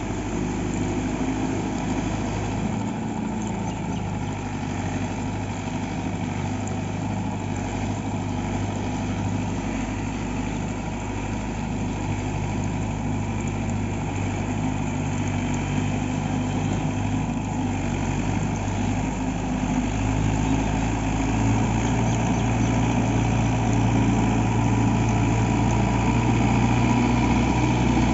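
Mahindra Yuvo Tech+ 575 DI tractor's diesel engine running steadily under load while driving a rotavator, growing louder over the last third.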